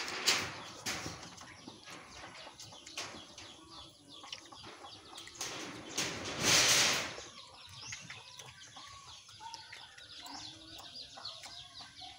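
Crisp bites and chewing of raw jicama, heard as short crunchy bursts, with one longer, louder rustling burst about six and a half seconds in. Faint chicken clucking runs through the second half.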